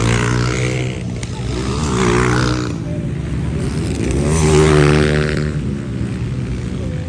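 Motocross motorcycles in the 125cc to 230cc class revving as they race past, engine pitch rising and falling with the throttle. Two swells, the louder one about four to five seconds in.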